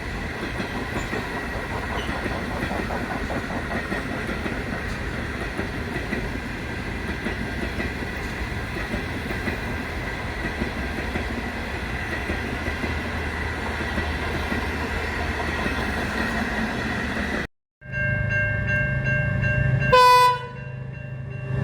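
A train running on the rails with a steady rolling rumble and a faint thin tone above it. After a sudden cut, another train's steady engine sound follows, with a short horn blast near the end.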